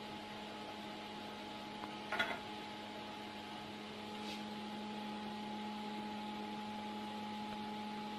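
Steady mechanical hum of a CNC machine at rest, with a short clatter about two seconds in and a faint tick a couple of seconds later.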